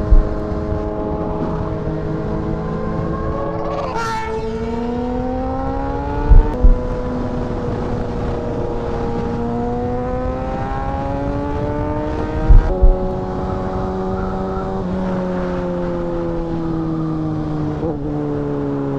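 Sport motorcycle engine running under way, its pitch stepping and gliding up and down as the throttle and gears change. There are two pairs of loud low thumps, about six and twelve and a half seconds in, and a quick rising rev near the end.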